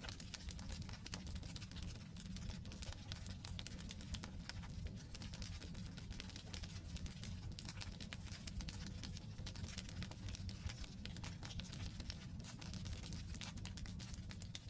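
Wood campfire crackling: dense, irregular small pops and snaps of burning logs over a steady low rumble of the flames.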